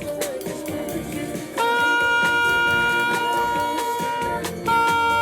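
A band playing jazzy music with saxophone and brass. About a second and a half in, the horns hold one long loud note, break off for a moment near the end, and come back in on the same note.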